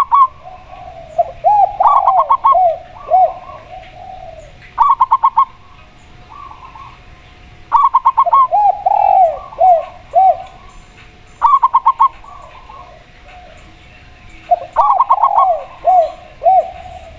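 A spotted dove and a zebra dove calling. Short bursts of about five quick, high staccato notes come every three seconds or so, and three times they run into a lower string of arching coos.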